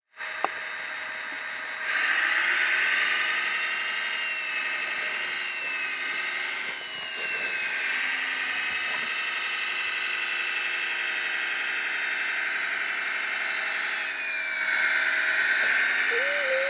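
Radio-controlled scale construction models running, with a high electric motor and gearbox whine whose pitch slides up and down over a steady engine-like hum. There is a click just after the start, and the whine gets louder at about two seconds and again near the end.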